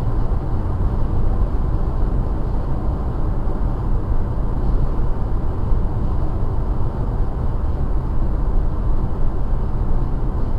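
Steady low road and engine noise of a car travelling at motorway speed.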